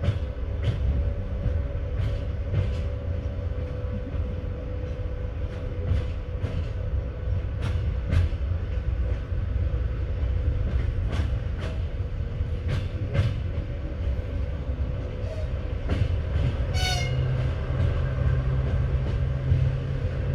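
Passenger train carriage rumbling steadily, with scattered, irregular knocks of the wheels over rail joints. A brief high squeal comes about three-quarters of the way through.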